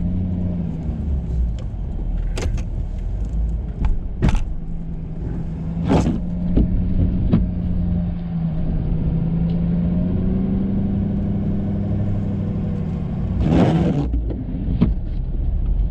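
Ford F-350 pickup's engine running under load while plowing snow with a Boss plow, rising slightly in pitch partway through and easing back near the end. Several sharp knocks and a longer scraping burst near the end.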